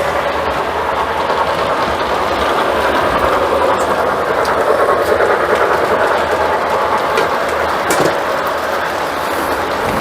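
Lionel model train running on three-rail track: a steady whirring and rattling of motor and wheels on the rails, getting a little louder in the middle as it comes closer, with a sharp click near the end.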